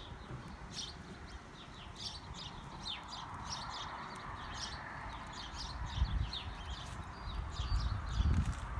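Small birds chirping busily, many short high chirps, over a steady hiss and low rumbles that grow louder around six seconds in and near the end.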